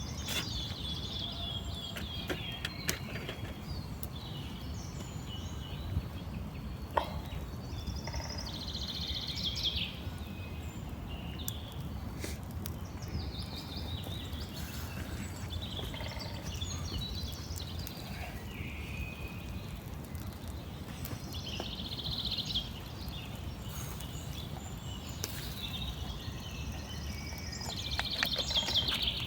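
Small birds chirping in short, quick trills that come back several times, over a steady low rumble of outdoor background noise, with a few scattered clicks.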